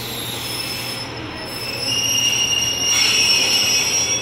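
British Rail Class 142 Pacer diesel multiple unit slowing into a station platform, its wheels and brakes giving a high-pitched squeal over a low steady rumble. The squeal grows louder about two seconds in.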